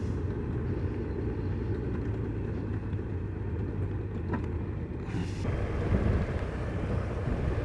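Honda CBF1000's inline-four engine and road noise heard from the moving motorcycle, a steady low rumble. A hiss grows louder about five seconds in.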